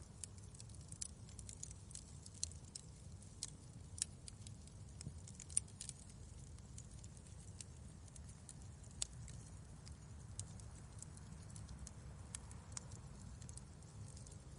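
Wood fire crackling in a fireplace: irregular small sharp snaps and pops, the loudest about five and a half seconds in, over a steady low rumble.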